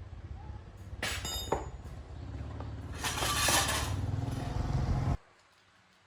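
A small engine running steadily, with sharp metallic clinks about a second in and a louder rattling stretch in the middle, then it cuts off abruptly about five seconds in.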